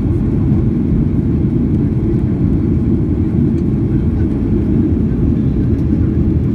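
Steady low rumble of jet engines and rushing air heard inside an airliner's cabin in flight.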